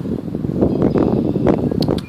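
Wind buffeting the microphone, a dense uneven rumble, with a few short sharp ticks near the end.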